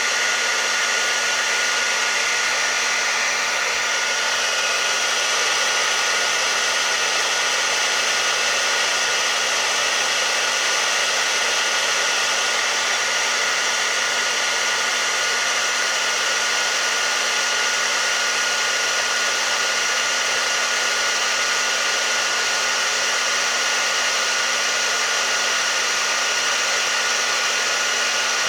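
Hair dryer running steadily: an even, unbroken whoosh of blown air with a steady motor whine, used as white noise to lull a colicky baby to sleep.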